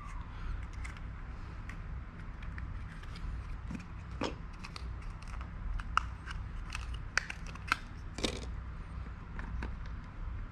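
Irregular small clicks and taps of hands working on computer parts and tools during a Mac mini RAM installation, with a few sharper clicks, over a low steady hum.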